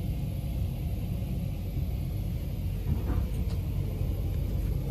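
MOB GoldenPass panoramic train running, a steady low rumble heard from inside the passenger car.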